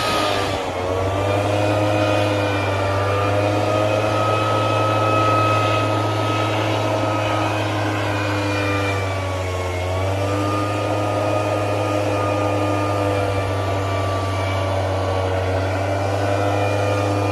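A motor running steadily with a strong low hum, its pitch dipping briefly and recovering twice, about half a second in and again around ten seconds in.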